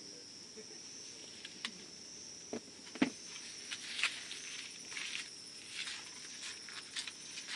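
Campfire wood crackling with irregular sharp pops, the loudest about three seconds in, over a steady high chirring of insects.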